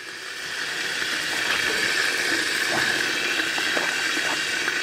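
Chopped onions going into hot oil in an electric kettle, frying with a steady sizzle that builds over about the first second.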